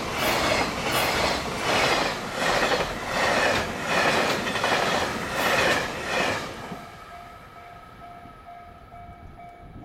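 A freight train's container wagons pass at speed, their wheels clattering over the rail joints in a steady rhythm, about one beat every two-thirds of a second, until the last wagon clears about six and a half seconds in. After that, the level-crossing alarm rings on alone, a rapid repeating ding.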